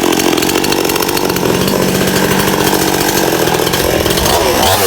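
Stihl two-stroke chainsaw with a 20-inch bar running at high revs, cutting through a soft palm trunk. Near the end the engine note drops and then climbs back up as the throttle is eased and reopened.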